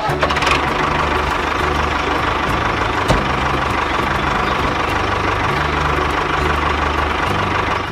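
Steady engine-like running noise over background music with a stepping bass line, with one sharp knock about three seconds in.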